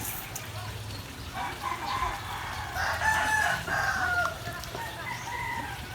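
A rooster crowing: one long, pitched crow, loudest about three seconds in.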